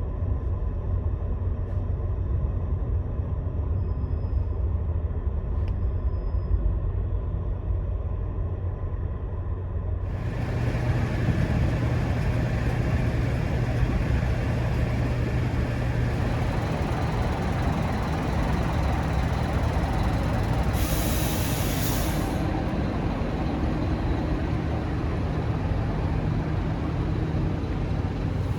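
Scania Astromega double-decker highway bus under way: a steady low engine drone with road and tyre noise. About a third of the way in, the noise turns suddenly louder and brighter, and about two-thirds in there is a short hiss lasting a second or so.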